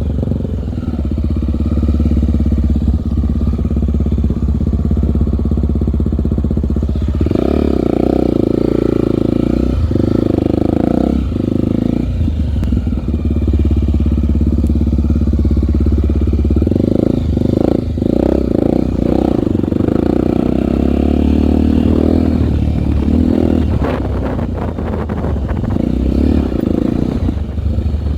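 Honda trail motorcycle's single-cylinder four-stroke engine running as it is ridden, the engine note rising and dropping with the throttle several times, with some clatter about three-quarters of the way through.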